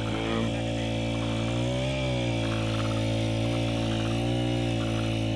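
Small petrol engine of a water pump running steadily, its pitch dipping briefly about two seconds in and then recovering.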